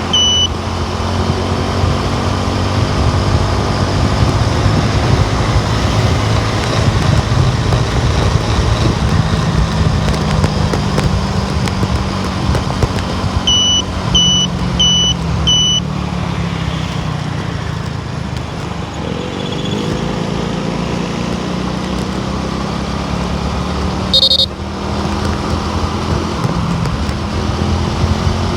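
Car driving on the road: steady engine and tyre rumble, rising in pitch a little past two-thirds of the way through as it speeds up. About halfway there are four quick high electronic beeps, and near the end a brief higher tone.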